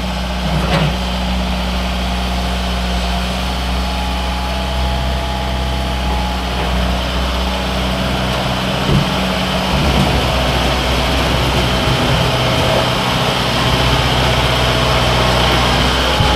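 Loader tractor engine running steadily while the tractor cleans out a cattle pen, with a few light knocks along the way.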